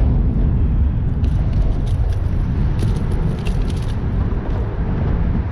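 Steady low rumbling noise, with faint clicks and rattles between about one and four seconds in.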